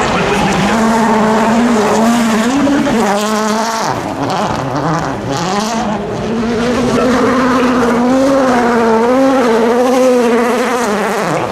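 A 2017 World Rally Car's 1.6-litre turbocharged four-cylinder engine at high revs on a stage. The revs drop and climb again twice about a third of the way in, then stay high and wavering until they fall away just before the end.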